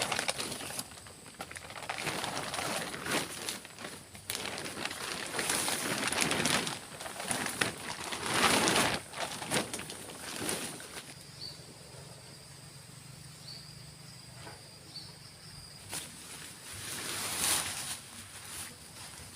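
Irregular rustling and brushing noises, in uneven bursts. In a quieter stretch past the middle come a few short, high chirps and a faint low hum.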